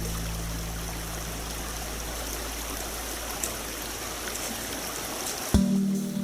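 Waterfall and river water rushing as a steady, even noise. Background music comes in near the end.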